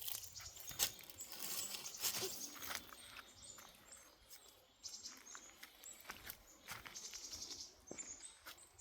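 Irregular rustling and crackling of dry vegetation, with a few faint high bird chirps.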